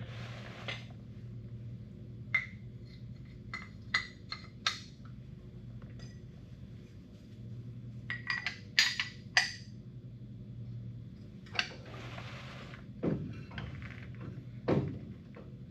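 Metal tools and brake parts clinking and tapping against each other while the front brake hardware is handled, in two clusters of sharp ringing clicks. A short hiss comes near the end, then a couple of duller knocks, over a steady low hum.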